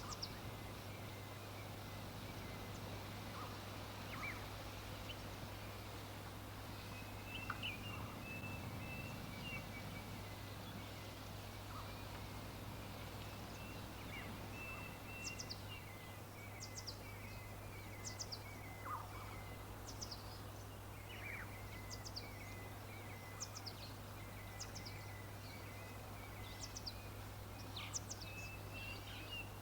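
Several wild birds calling over a steady background hiss and low hum. One gives a chattering run of short notes. From about halfway another repeats a high call that slides down in pitch, roughly once a second.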